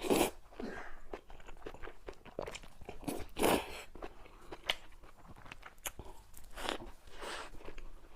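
Close-up crunching and chewing of crisp food, with sharp crackles between louder crunchy bites near the start, about three and a half seconds in, and near the end.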